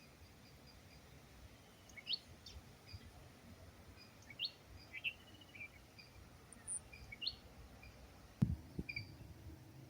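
Forest birds calling: scattered short chirps and a few quick upward-sweeping whistles every couple of seconds, over a faint steady background. A single sharp knock sounds near the end.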